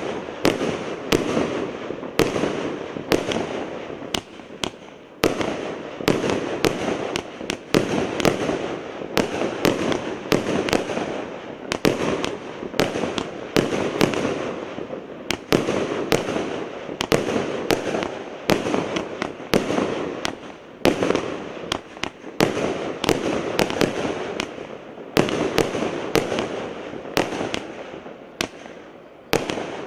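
A 100-shot, 1-inch consumer fireworks cake firing in quick succession: sharp shots about once or twice a second, with a dense hiss of the bursting effects between them and a brief lull near the end.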